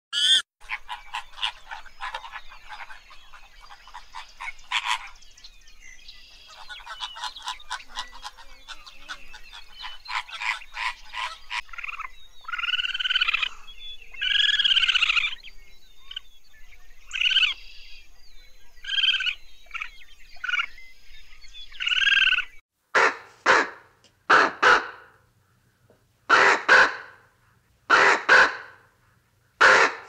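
Animal calls in a run of short clips. First comes a rapid rattling chorus of short calls, then louder calls that rise and fall in pitch. After a cut about three-quarters of the way through, a loud harsh call repeats every second or two.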